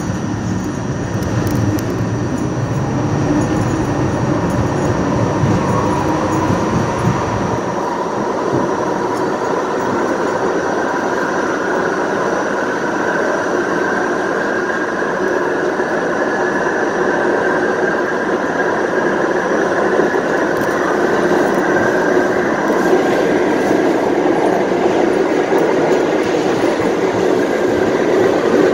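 Kawasaki R68A subway car's traction motors howling, the pitch climbing slowly as the train picks up speed, over steady wheel and rail noise.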